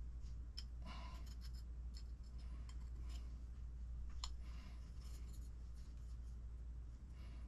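Faint scattered clicks and scratchy rubbing of small RC kit parts being handled, over a steady low hum.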